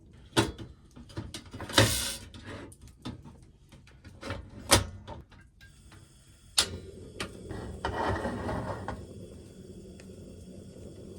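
Clicks and knocks of cooking gear being handled, then a portable camping gas stove turned on: a steady gas hiss starts about halfway through, an ignition click follows, and the burner catches with a brief louder rush before running on with a steady hiss.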